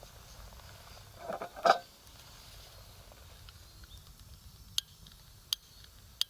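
Wood campfire burning, with a brief louder rustle and knock about one and a half seconds in and three sharp single crackles near the end.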